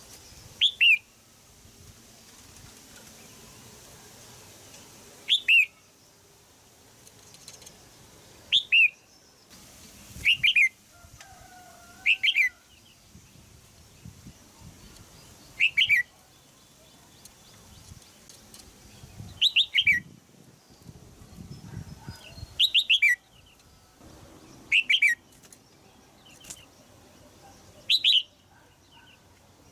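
Red-whiskered bulbul giving short, sharp 'jiak' calls, each a quick falling note. The calls come every two to four seconds, some in quick pairs.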